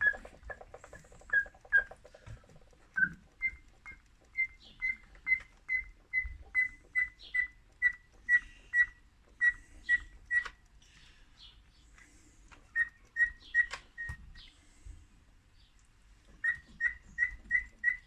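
Chainsaw primer bulb being pumped by hand, giving a short rubbery squeak with each press at about two to three presses a second. It breaks off briefly near the end, then starts again. The fuel system is now priming, drawing fuel through a newly replaced fuel line.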